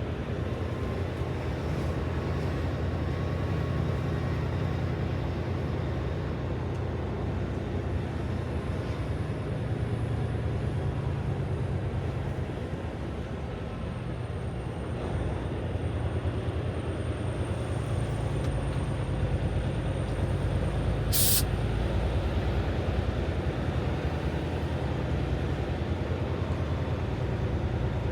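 Semi-truck's diesel engine running with road noise, heard from inside the cab as the truck is driven. The engine hum eases off briefly around the middle, then gets louder in the last third, and a single short sharp click sounds a little past twenty seconds.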